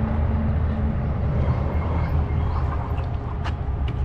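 Steady low rumble of riding a 20-inch fat-tire e-bike on a trail: rolling and wind noise on the mounted microphone, with a couple of short clicks near the end.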